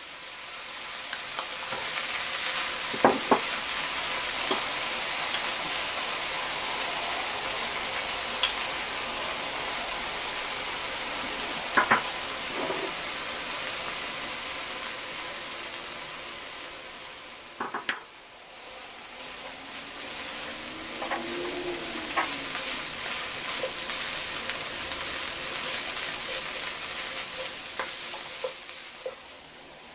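Canned tuna, chopped green onions and rice sizzling in a frying pan with a steady hiss, stirred with a wooden spatula that gives a few sharp taps against the pan.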